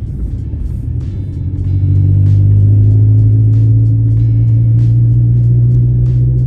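A 2000 Acura Integra's four-cylinder engine running under way, getting louder about two seconds in as it pulls harder and then holding steady. Music with a steady beat plays over it.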